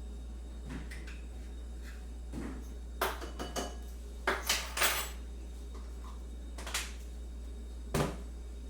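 Crockery and cutlery clinking: a quick run of light knocks and clinks about three seconds in, then two single ones near the end, over a steady low hum.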